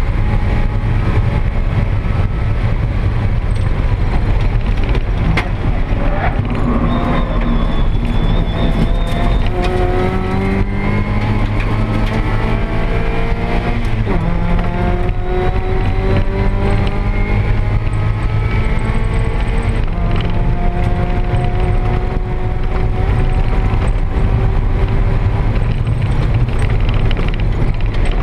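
Race-prepared first-generation (NA) Mazda MX-5 Miata's four-cylinder engine pulling hard, heard from inside the stripped cabin over a constant low drone. Its pitch climbs slowly, dips about halfway through, then climbs again.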